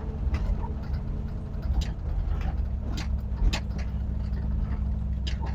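Triumph TR7 V8 rally car's V8 engine running at a steady pitch while the car drives straight, heard from inside the cabin, with a few sharp knocks and rattles from the car over the ground.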